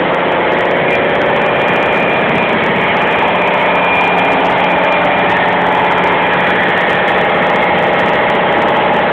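Marine diesel generator engine running steadily in a ship's engine room: a loud, even drone with a steady hum through it.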